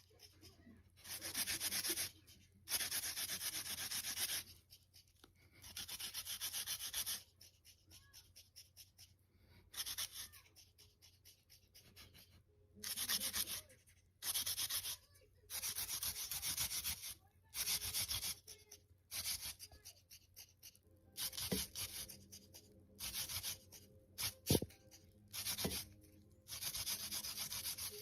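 Faint scratchy rasping noise coming in repeated bursts of about a second each with short gaps between, and a few sharp clicks near the end.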